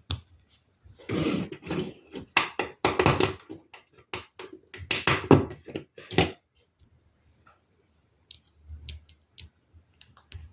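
Plastic LEGO Technic pieces clicking and rattling as they are handled, in two busy clusters of clatter followed by a few single clicks.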